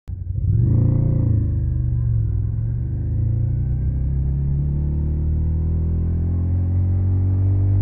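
Suzuki SV650 V-twin engine running through a Yoshimura Alpha carbon exhaust. It starts abruptly, revs up briefly about a second in and settles back, then holds a steady low note that creeps up slowly near the end.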